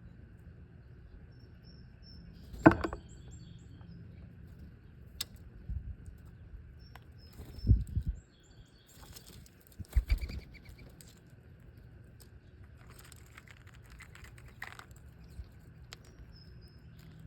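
Small wild birds giving short, high chirps now and then, with a few sharp knocks or thumps, the loudest one about three seconds in.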